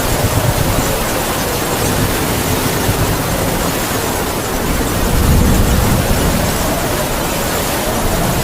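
Heavy rain pouring steadily with wind howling over it: a thin, wavering whistle that sinks slowly and climbs again near the end, and a low gust swelling about five seconds in.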